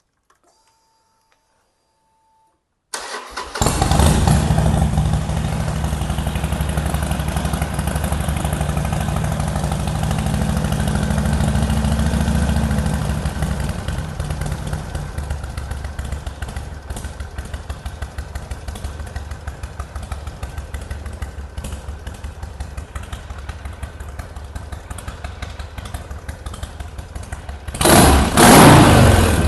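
Harley-Davidson V-twin motorcycle engine starting about three seconds in and running at a raised cold-start idle set by an aftermarket idle control. About ten seconds later it drops to a lower, slower idle, and near the end it is revved once and falls back.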